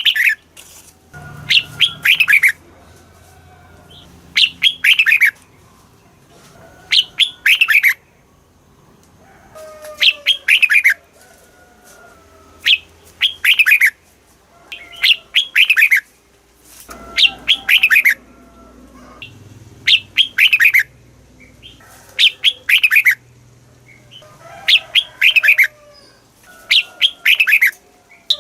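Red-whiskered bulbul singing: short loud phrases of a few quick descending notes, repeated about every two to three seconds, with softer calls between.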